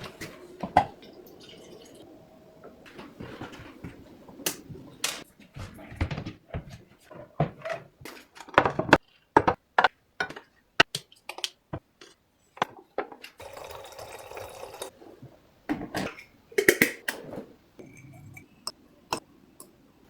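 Tea being made with teaware: a string of sharp clinks and taps of cups and pots, with water pouring for a couple of seconds a little past the middle.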